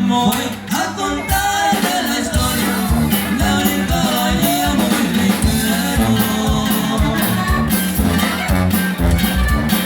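Regional Mexican corrido played by a band with a steady beat of drums and a bass line.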